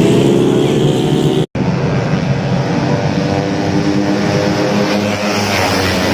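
Tuned 130 cc automatic racing scooter engines running at high revs. The sound cuts out for an instant about a second and a half in, then picks up again.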